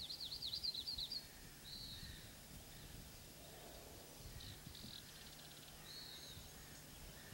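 Songbirds calling outdoors: a quick trill of rapidly rising and falling notes in about the first second, then a few short, separate calls, over a faint low rumble of ambient noise.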